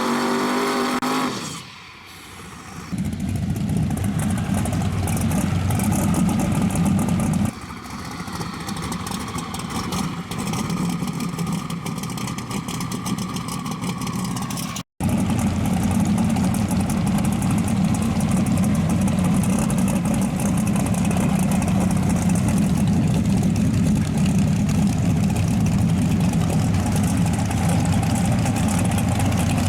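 Drag race car engines running loud and rough. Music fades out in the first second or two, and the sound breaks off for an instant about halfway through.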